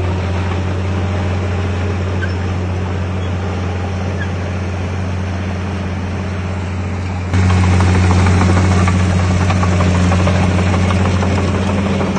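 Heavy diesel engine of earthmoving machinery running steadily with a deep, even hum. About seven seconds in it abruptly becomes louder and stays louder.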